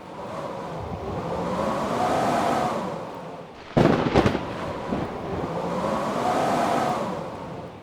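Blizzard wind howling in gusts, swelling and fading with a whistling tone that rises and falls. A sudden loud double thump or crack comes about four seconds in.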